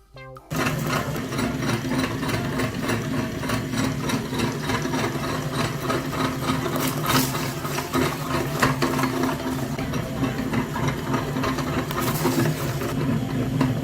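A small motor running steadily with a low hum and a fast, even rattle, starting about half a second in.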